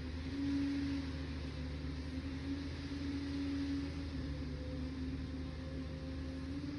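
Liebherr 746 crawler dozer's diesel engine running steadily under work, a low drone whose note swells briefly about half a second in and again around three seconds in.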